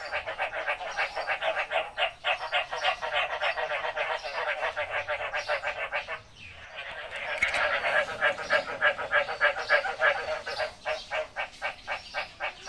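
Frogs calling in a chorus: a fast, steady train of short pulses, about six or seven a second. The calling drops briefly about six seconds in, then comes back louder.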